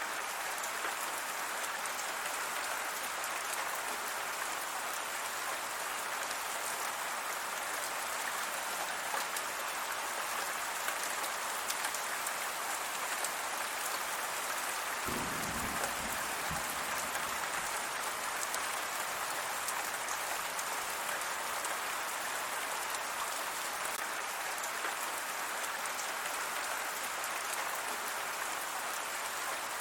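Steady rain falling, an even hiss of drops striking surfaces. A brief low rumble comes about halfway through.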